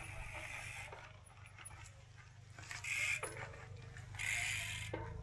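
A person breathing hard, with two long panting exhales about a second and a half apart over a low steady rumble.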